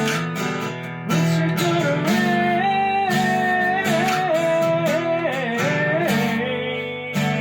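Acoustic guitar strumming chords in an instrumental passage, with a melody line above it that slides and steps between notes.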